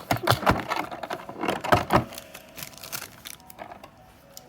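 Clicks and rattles of a model airplane's packaging being handled as the stuck model is worked free: a quick run of sharp clicks in the first two seconds, then a few softer ones.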